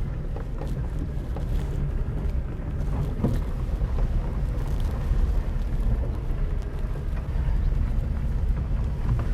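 Vehicle driving on a gravel road: a steady low rumble of engine and tyres, with scattered light clicks and knocks.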